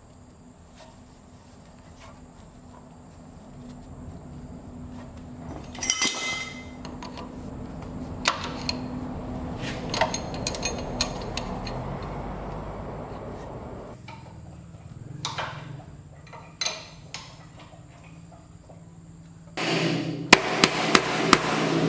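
Workshop sounds: a low steady hum swells and fades over several seconds, with a few sharp knocks. Near the end comes a louder run of rapid hammer strikes.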